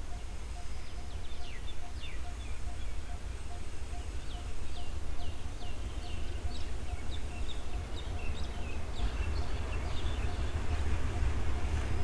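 Hitachi diesel-electric locomotive approaching with its passenger train, a low rumble that grows louder in the last few seconds. Birds chirp with short falling calls throughout, over a faint rapid pulsing tone.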